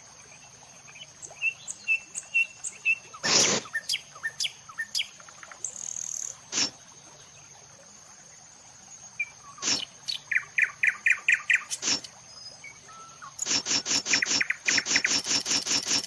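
Songbirds chirping and calling in short phrases, with a quick series of repeated notes about ten seconds in and a louder, faster run of repeated notes near the end.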